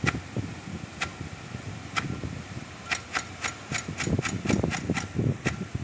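Impact-driven rain gun sprinkler ticking as its swinging arm steps it round, sharp ticks about once a second with a quicker run of about five a second in the middle, over the rush of the water jet.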